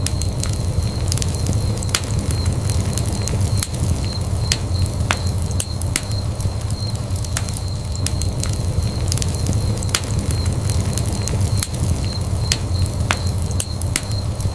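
Wood fire burning in a fireplace: a steady low rumble of flame with sharp, irregular crackles and pops of burning wood, a few every second.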